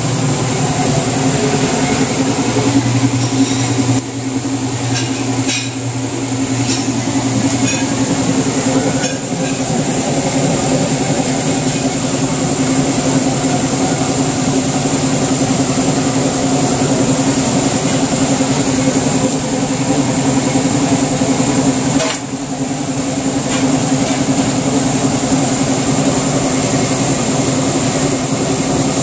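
Whirlpool stackable washer running its spin cycle: a steady motor and drum hum with a faint high whine. It is spinning again now that the faulty lid switch, which had stopped it from spinning and draining, has been dealt with.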